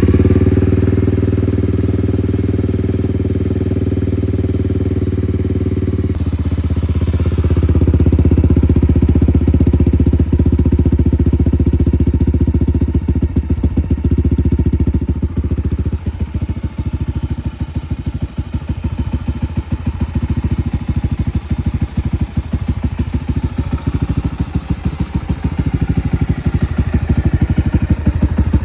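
Honda GB500's 500cc single-cylinder engine running at idle just after a first-kick start, warming up after the bike has sat unused. Its note changes about six seconds in, after which the separate firing beats stand out more.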